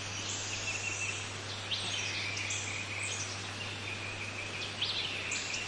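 Background nature ambience: a steady high hiss with a few short rising bird chirps over it, and a low steady hum underneath.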